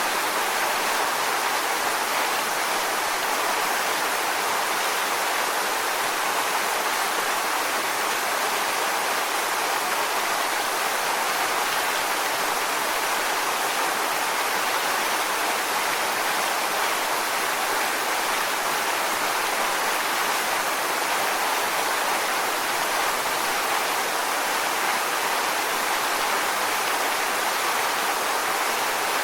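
Waterfall: water pouring steadily onto rocks, a constant even rush with no breaks.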